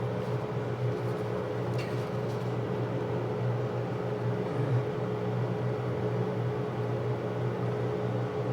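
Steady low machine hum with a constant pitch, with a few faint soft clicks about two seconds in.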